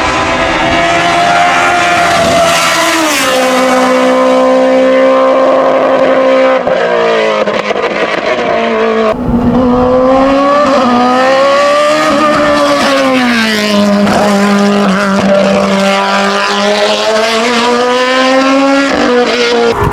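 Hillclimb race car engine at high revs under hard acceleration, the pitch climbing and dropping in steps with gear changes. The sound breaks off abruptly about nine seconds in and picks up again with another run of rising and falling revs.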